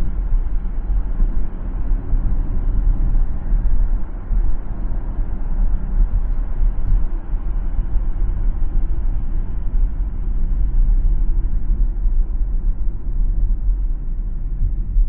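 Car driving down a city road: steady low rumble of tyres and engine as heard by a dashcam.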